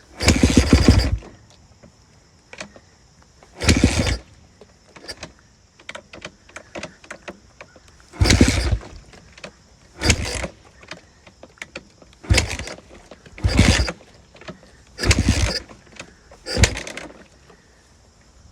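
Kawasaki KX250F four-stroke motocross engine being turned over about eight times, each attempt a short burst of about a second that dies away without catching and running: the bike failing to start, which the owner says happens unless it is warmed up. Faint clicks between the attempts.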